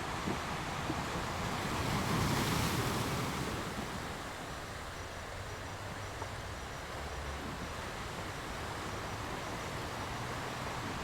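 Sea waves washing in, one wave swelling about two seconds in and then fading back to a steady wash.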